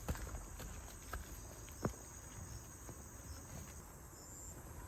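Faint, steady high-pitched chirring of insects in the vegetation, with a few light knocks, the sharpest about two seconds in.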